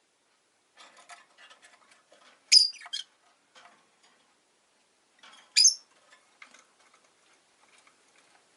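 Rosy-faced lovebirds giving two short, sharp chirps about three seconds apart, amid soft clicking and scratching from the birds in their cage.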